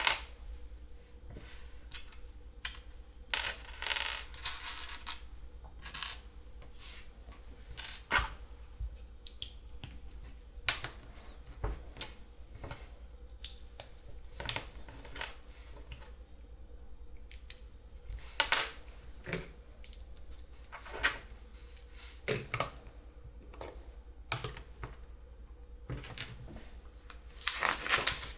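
Plastic LEGO pieces clicking and clattering as a set is built: irregular sharp clicks, with a few longer rattling stretches of pieces being sifted, one about four seconds in, one past halfway and one near the end.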